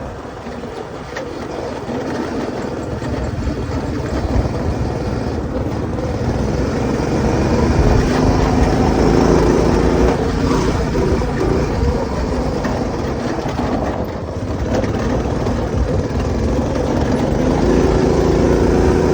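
A go-kart's small engine, fitted with a new 30mm carburetor, running continuously and changing pitch as the throttle varies, louder from about eight seconds in, easing briefly, then picking up again near the end.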